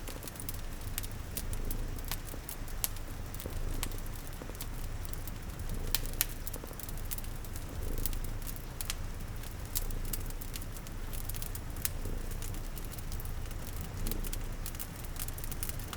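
Layered cozy ambience: a cat purring low, swelling every couple of seconds, under a fireplace's scattered sharp crackles and pops, with a soft hiss of rain.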